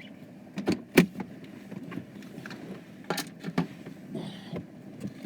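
A few sharp clicks and knocks inside a car, over a low steady hum.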